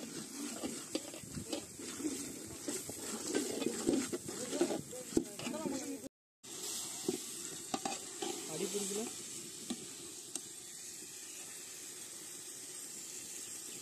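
Food sizzling as it fries in a cooking pot while being stirred, a steady hiss that cuts out briefly about six seconds in.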